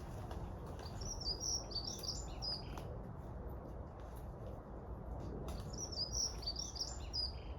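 A small songbird singing two short, quick phrases of high chirping notes, about a second in and again past the halfway point, over a steady low outdoor rumble.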